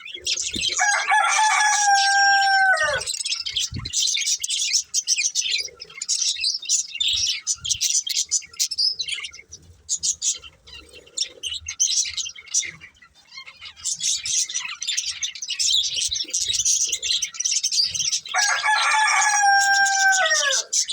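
Budgies chattering and chirping continuously in quick, high twitters. Twice, about a second in and again near the end, a louder, lower call is held for about two seconds and drops in pitch at its end.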